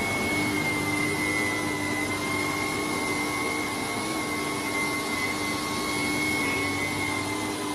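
Vacuum cleaner motor running steadily, a whine held on one pitch over a rushing airflow.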